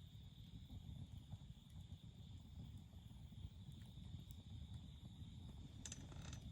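Wood campfire burning quietly: a faint low rumble with sparse small crackles, and a quick cluster of pops near the end.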